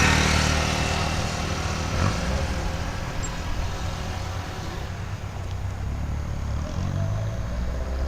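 Volkswagen Gol G2 engine running with a light exhaust rumble. A louder spell at the start fades within about a second, then the engine settles into a steady low note that grows a little louder again near the end.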